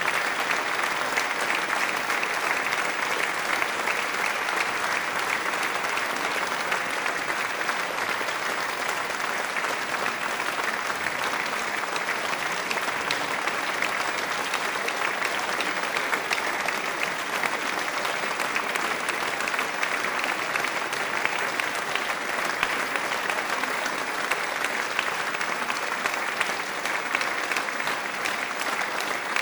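Audience applauding steadily: many hands clapping in a dense, unbroken wash of claps.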